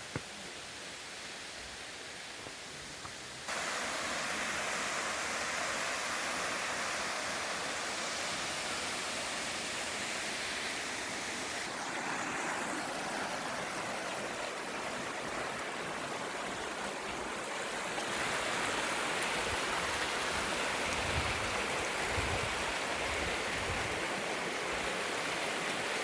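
Mountain stream flowing, a steady rush of water that steps up louder about three and a half seconds in and again around eighteen seconds, with a few low thumps near the end.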